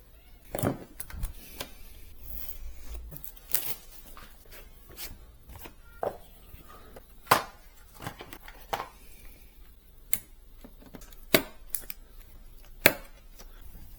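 Irregular sharp clicks and knocks, about a dozen, from hard computer parts and packaging being handled and set down during a PC build, several louder ones in the second half.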